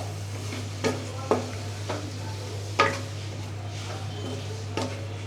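Chicken, onions and spices being stirred in a pan on the stove, the utensil knocking and scraping against the pan about five times, loudest about three seconds in, over light sizzling and a steady low hum.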